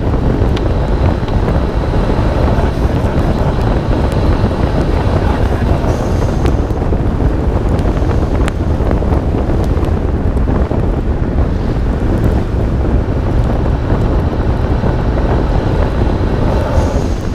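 Steady wind roar buffeting a hood-mounted microphone on a 1991 Nissan Skyline R32 GT-R driving at speed on a rain-wet road, with the car's twin-turbo straight-six engine and the hiss of tyre spray beneath it.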